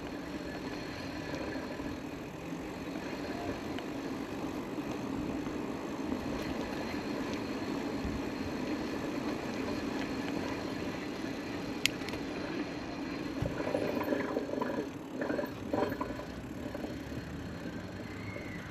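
Aventon Level.2 e-bike rolling slowly along a trail, a steady hum of tyres and drive. There is a single sharp click about twelve seconds in, and a few brief louder bumps a little after.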